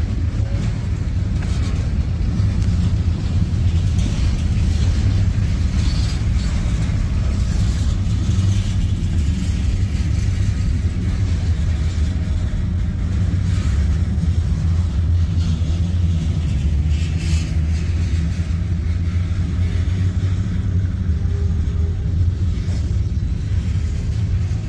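Freight cars of a manifest train rolling past: a steady low rumble of steel wheels on rail, with a few short clanks now and then.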